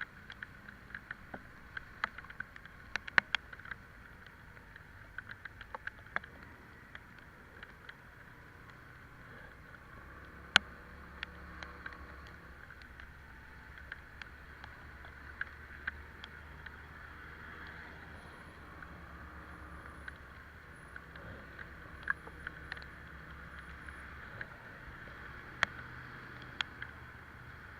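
Italika Vitalia 125 cc scooter ridden in the rain: a steady hiss of wind and wet road, with a low engine drone that swells about ten seconds in and eases off near the end. Scattered sharp ticks run throughout, raindrops striking the camera, one much louder than the rest.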